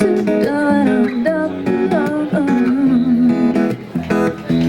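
Live acoustic guitar strumming, with a woman's voice singing wordless sliding "oh" phrases over it.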